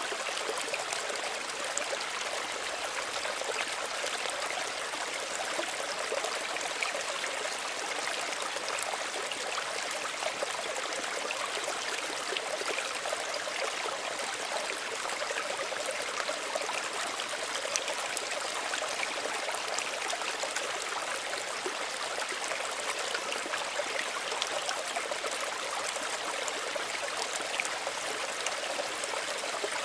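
Small stream running steadily: water trickling and babbling over stones with a bright, even splashing, with no pauses or changes.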